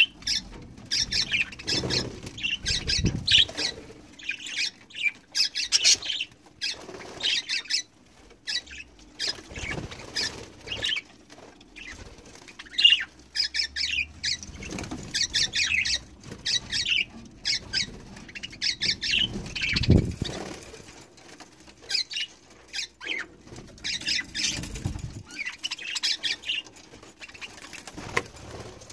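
Budgerigars chirping in quick, broken runs of high notes, with repeated bursts of wing flapping as they bathe.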